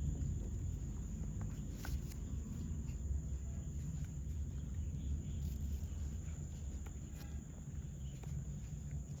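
Outdoor ambience: a steady low rumble with a constant high-pitched tone over it, and a few faint clicks.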